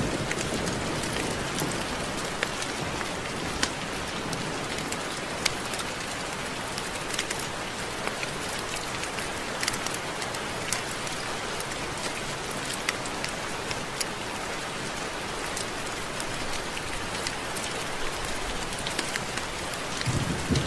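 Steady rain: an even hiss with many individual drops ticking sharply at irregular moments.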